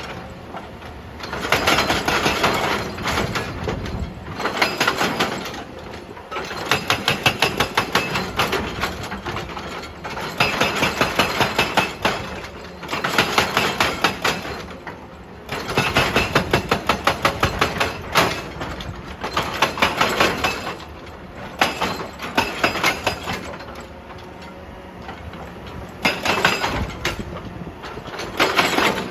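Excavator-mounted hydraulic breaker hammering rock in short bursts of rapid blows, each burst lasting a second or two and repeating about ten times. The excavator's diesel engine runs between the bursts.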